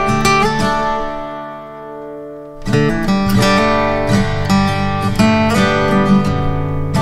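Background music: strummed acoustic guitar. One chord rings out and fades for about a second and a half, then the strumming picks up again near the middle.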